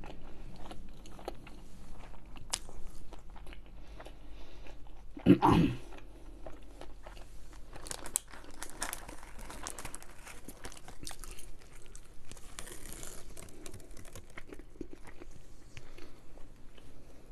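Close-miked eating: irregular biting and chewing of a burger and fried sides, with small crunches and crackles. About five seconds in there is one louder, heavier thump.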